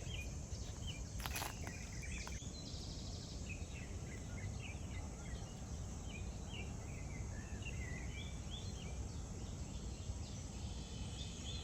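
Birds chirping in many short, scattered calls over a steady low outdoor rumble, with one brief sharp click about a second and a half in.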